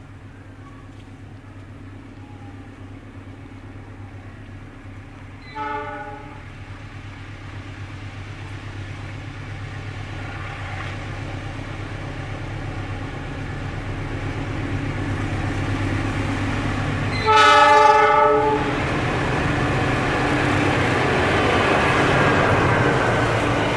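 Pangrango passenger train's diesel locomotive pulling away, its engine running steadily and growing louder as it gets closer. Its horn sounds twice: a short blast about a quarter of the way in and a longer, louder blast about three quarters through, after which the rumble of the wheels and cars builds.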